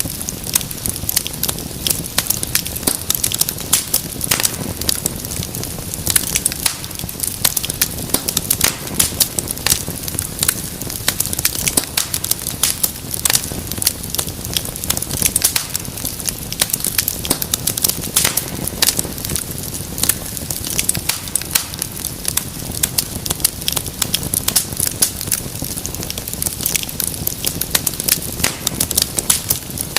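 Wood fire crackling: dense, irregular pops and snaps over a steady low rumble of burning.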